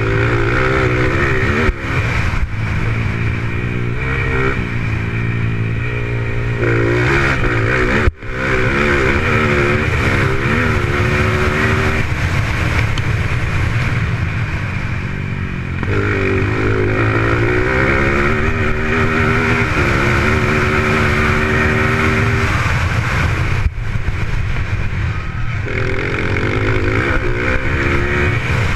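Off-road racing motorcycles on a dirt track, engines revving up and down repeatedly as the riders accelerate and shift through the corners.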